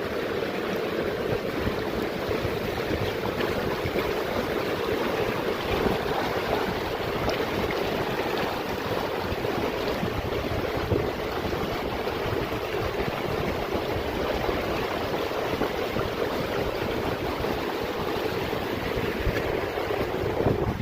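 Steady rush of flowing water from a mountain stream or waterfall, a loud, even noise.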